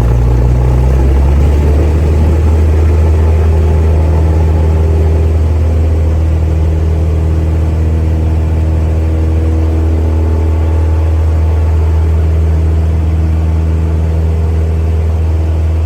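Light airplane's piston engine running steadily at high power. Its pitch shifts slightly about a second in, then holds steady.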